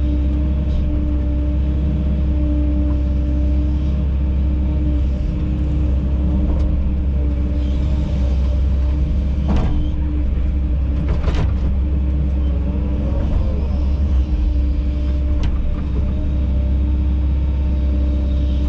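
Kobelco SK210 excavator's diesel engine running steadily under work, a deep drone with a steady hum, with two short sharp knocks about ten and eleven seconds in.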